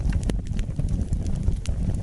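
Wood fire burning in a fireplace, with a dense low crackling and a couple of sharper pops from the burning logs.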